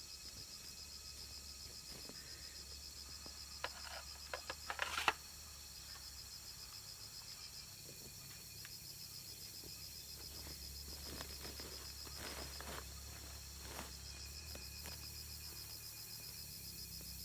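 Insects trilling steadily in a high, rapidly pulsing chorus. A quick cluster of sharp clicks or knocks comes about four to five seconds in, and a few fainter knocks follow later.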